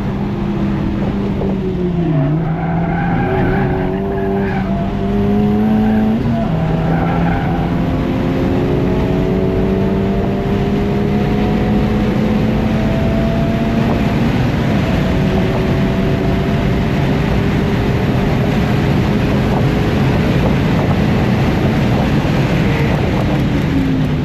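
Honda K20C1 turbocharged 2.0-litre four-cylinder of an FL5 Civic Type R under track driving, its engine note dropping about two seconds in, then climbing through the gears with changes around six and fourteen seconds and holding nearly steady in the second half. Tyres squeal in the first several seconds, over steady road and wind noise.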